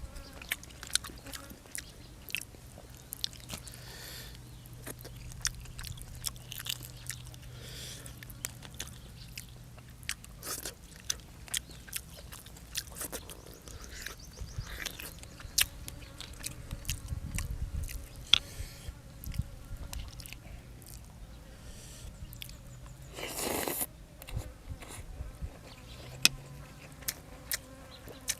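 Close-miked chewing and biting, with many small wet clicks and crunches from eating chicken soup with rice noodles and fresh raw vegetables. There is a short louder rush of noise about 23 seconds in.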